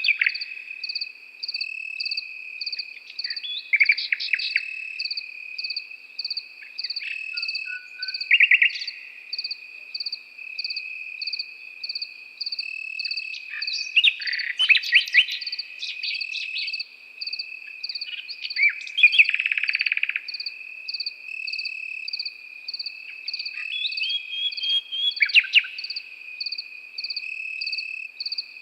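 Nightingale singing short phrases every few seconds, with rapid repeated notes and a dense buzzy trill, over crickets: one trilling steadily and a higher one chirping in a regular pulse.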